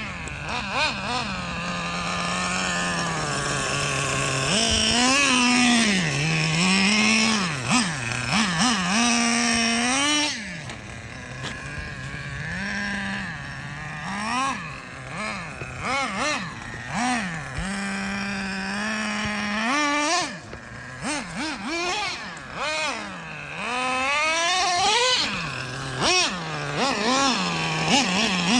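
Traxxas nitro RC truck's small two-stroke glow engine running, revved up and down again and again. It climbs in pitch on each blip of throttle and drops back to a steady lower note between runs.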